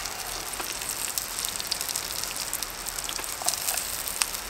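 Burgers and sliced onions sizzling in a hot pan over a Trangia alcohol stove: a steady crackling hiss with scattered pops and light ticks of metal tongs in the pan. The heat is too high to turn down, and the onions are caramelising and blackening the pan.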